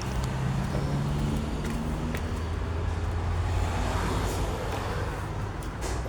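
Steady low rumble of road traffic, with a vehicle's engine tone audible in the first couple of seconds.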